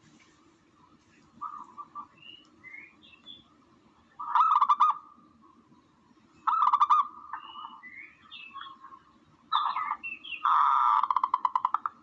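Tukmo (dove) calls used as a bird-hunting lure: loud pulsed calls about 4 s, 6.5 s and 9.5 s in, then a longer rapid pulsing run near the end. Fainter short higher chirps come in between, over a low steady hum.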